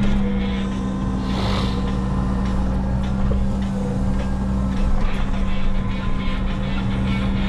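Diesel engine of a Menzi Muck walking excavator running steadily at one constant pitch, with a short hissing swell about a second and a half in and faint scattered knocks later.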